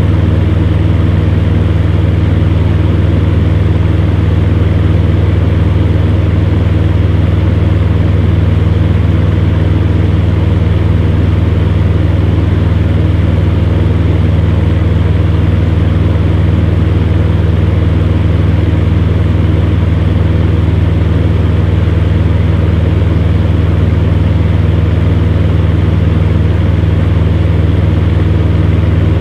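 Electric fan heater running steadily: a low, even hum from its fan motor under a rush of air.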